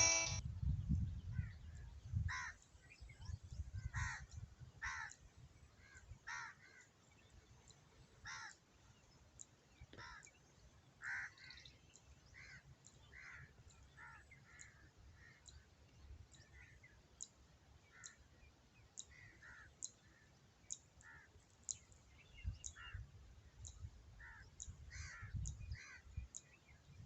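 Crows cawing faintly and repeatedly, in short separate calls scattered throughout, with a low rumble coming and going underneath.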